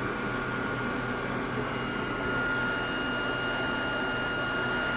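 Steady electrical hum and a high, even whine from the onboard equipment of a Hakone Tozan Railway Moha 1 railcar heard inside the car, with no rail-joint clatter, as if the car is standing still; a second, higher whine joins about a second and a half in.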